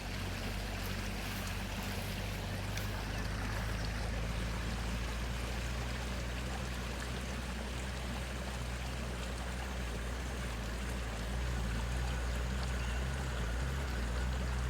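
Steady rush of flowing river water, with a steady low rumble underneath.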